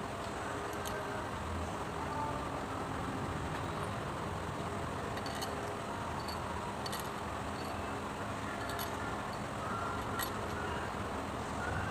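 Steady background noise like passing road traffic, with a few light sharp clicks scattered through it.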